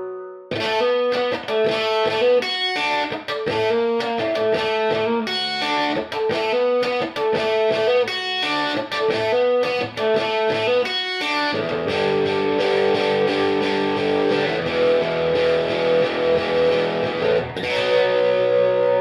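Electric guitar riff of quick picked notes, then held ringing chords from a little past halfway, with a fresh chord near the end, heard through a Paragon ST reverb preset.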